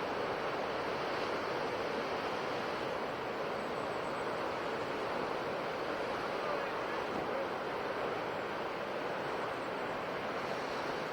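Sea surf washing against the coast: a steady, even rush of water noise, with no single wave crash standing out.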